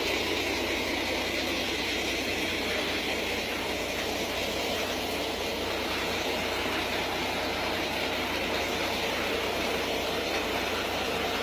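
Steady, unbroken roar of rushing floodwater from a swollen creek. It stops abruptly right at the end.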